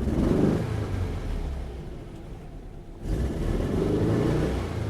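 1967 Porsche 912's newly built 2.1-litre air-cooled flat-four engine pulling away under throttle, swelling twice, once at the start and again about three seconds in, each pull easing off afterwards.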